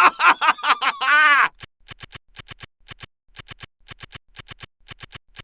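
Cartoon sound effects: a quick run of short squeaky chirps ending in a rise-and-fall pitch glide, then a soft ticking rhythm of clicks in threes, about two groups a second.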